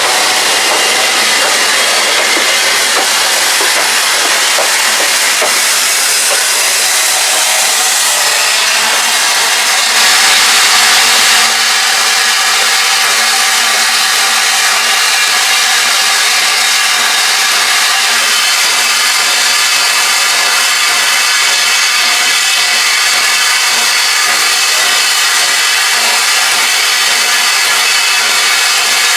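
Steam locomotive standing at a station platform, steam hissing steadily, with a louder surge of steam about ten seconds in lasting a second or two.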